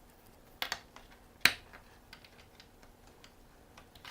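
Sharp clicks and knocks of small hard parts being handled: Lansky honing stones and their aluminium guide rods being fitted, with a thumb screw being worked. Two clicks come close together a little after half a second, the loudest about one and a half seconds in, then faint light ticks.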